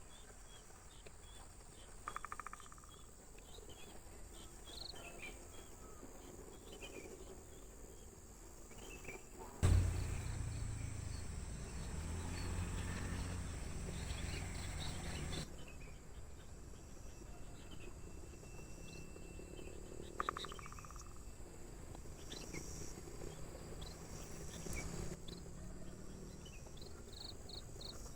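Crickets and other insects chirring in a steady high-pitched drone, with scattered short bird chirps throughout and a rapid trill twice. About ten seconds in, a loud low rumbling noise starts suddenly, lasts about six seconds and cuts off abruptly.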